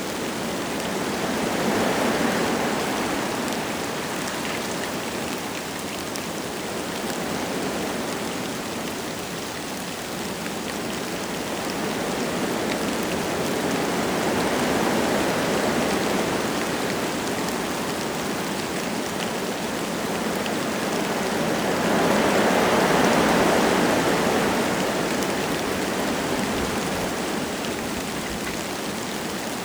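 Wind gusting through forest trees with light rain falling. The hiss swells and eases in slow gusts, three times, strongest near the end.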